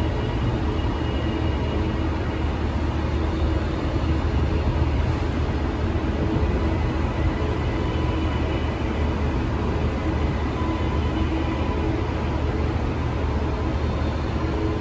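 TransPennine Express passenger train moving slowly along the platform: a steady low rumble from its wheels and running gear, with a few faint steady tones above it.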